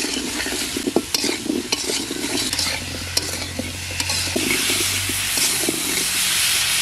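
Taro root chunks sizzling in hot oil in a metal wok while a metal spatula stirs and scrapes them, with frequent sharp clicks of the spatula against the pan. This is the sautéing stage of a taro curry.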